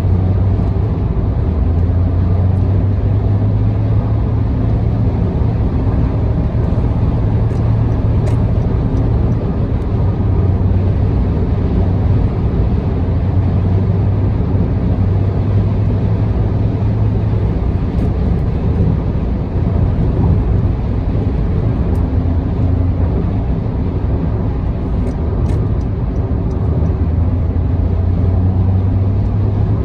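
A car cruising at expressway speed: steady engine and tyre road noise with a strong low drone.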